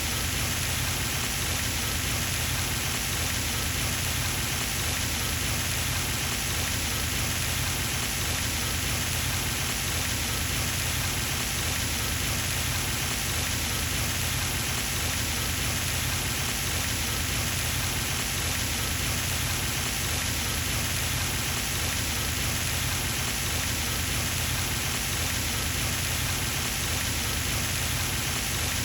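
Pond fountain splashing: a steady, even rush of falling water onto the pond surface, unchanging throughout.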